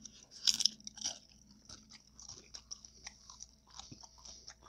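A taco being bitten and chewed: one loud crunch about half a second in, then a run of smaller crunches and mouth clicks as it is chewed.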